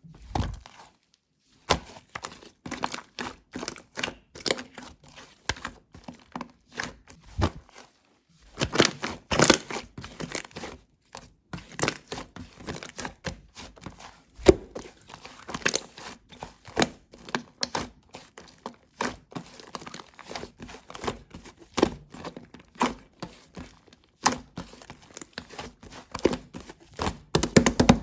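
Hands squishing, stretching and poking slime, making irregular sticky clicks, pops and crackles.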